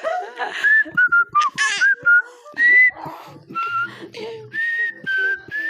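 A person whistling by mouth: a halting string of short, pure notes that step up and down in pitch, with breathy puffs of air between some of them.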